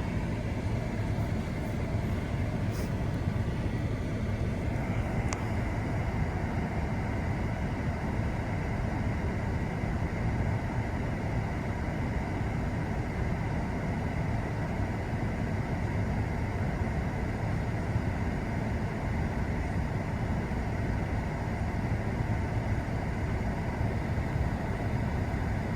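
Steady low rumble of a parked pickup truck's engine idling, heard from inside the closed cab.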